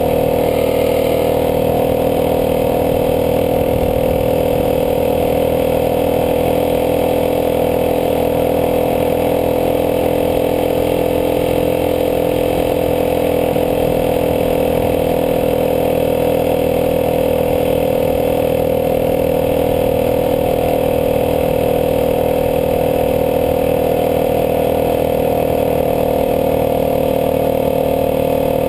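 Dirt bike engine running at steady revs under load while towing another dirt bike.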